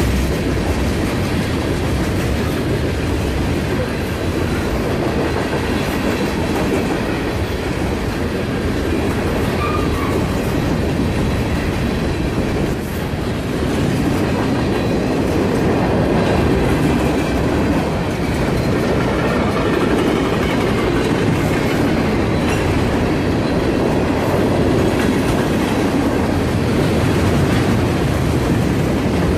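Freight train rolling past a grade crossing: a steady, loud rumble of railcars with wheels clacking over the rail joints.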